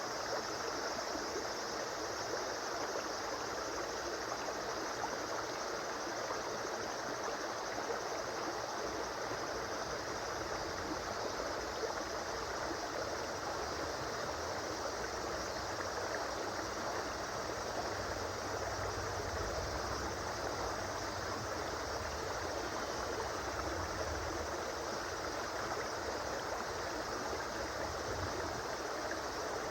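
River flowing: a steady, unbroken rush of running water, with a slightly deeper rumble in the middle.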